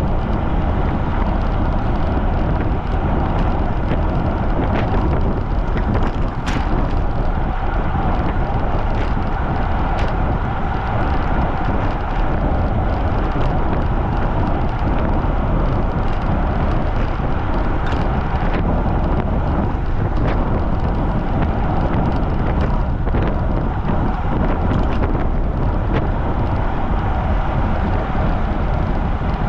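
Strong wind buffeting the microphone of a camera on a bicycle ridden at speed: a loud, steady rumble with scattered light clicks.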